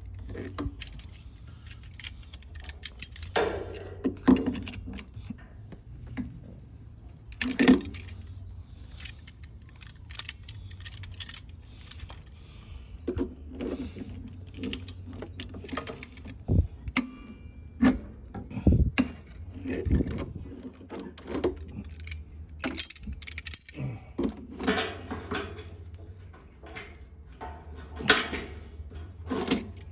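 Metal hand tools and fittings clinking, tapping and scraping in irregular bursts during work on a water heater drain valve, over a steady low hum.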